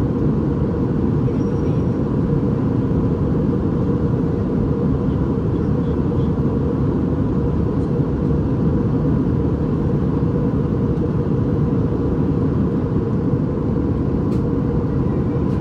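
Airbus A319 cabin noise in flight: a steady low roar of engines and airflow, with a faint steady hum above it.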